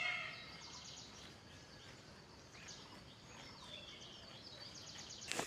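Birds chirping and trilling faintly in a quiet morning soundscape, with short high chirps and a few sweeping whistles. A sharp click comes near the end.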